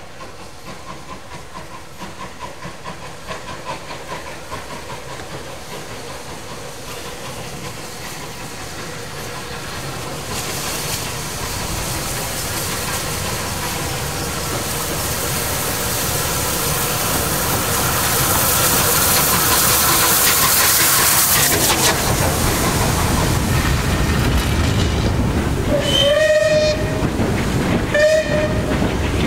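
A train approaching and passing, growing steadily louder with a hiss at its loudest, and sounding two short blasts near the end.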